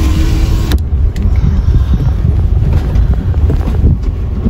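Game-drive vehicle rumbling low and loud over a rough track, with wind buffeting the microphone. An electric window whirs and stops abruptly under a second in.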